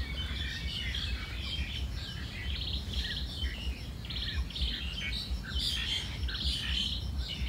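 Several wild birds chirping and chattering, short calls and quick trills following one another without pause, over a steady low rumble.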